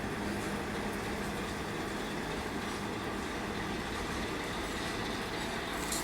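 2TE116 twin-section diesel locomotive with a freight train, its V16 diesel engines running steadily as the train departs.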